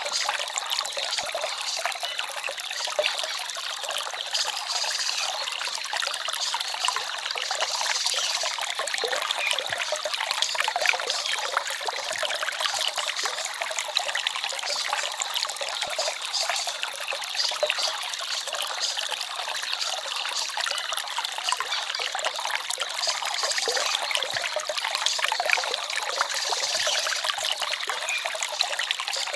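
A small forest stream trickling and babbling, a steady bright rush of water with little low rumble.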